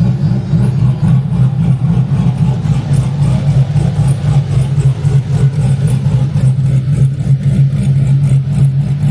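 Big-turbo, cammed LS V8 idling on E85 while warming up after a below-freezing cold start, with an uneven, choppy idle.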